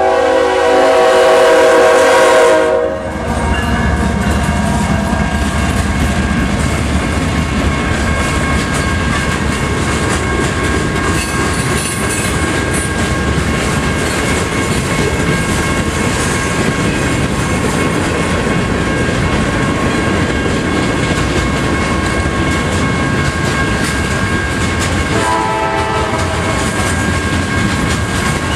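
Diesel locomotive horn blowing loudly for about three seconds, then a freight train's cars rolling through a grade crossing: a steady rumble with the clickety-clack of wheels over rail joints and a thin, steady high squeal over it. A second, shorter horn blast sounds a few seconds before the end.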